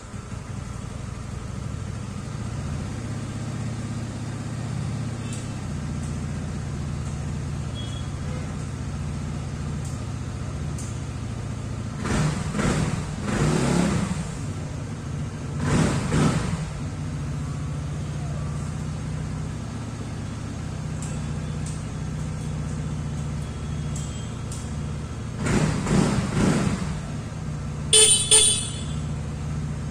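TVS Ntorq 150 scooter's single-cylinder engine starting and idling steadily, revved three times, with two short horn toots near the end.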